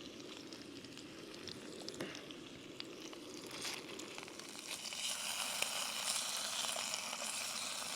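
Food sizzling and crackling in a frying pan, the hiss growing louder about halfway through.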